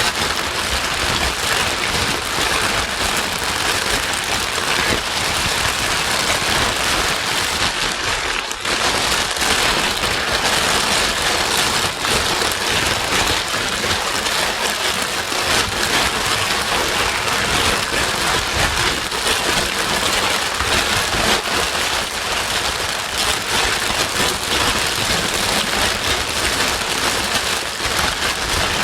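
Continuous white noise: a steady, even hiss that sounds like heavy rain, used as a baby-soothing sleep sound.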